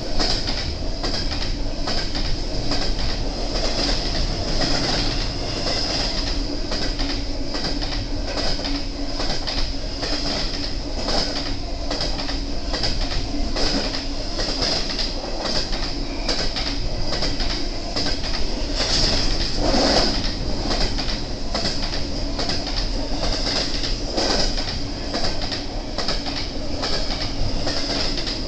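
BNSF intermodal freight train's cars rolling past, a steady rumble with wheels clicking over rail joints and a steady high-pitched tone running over it.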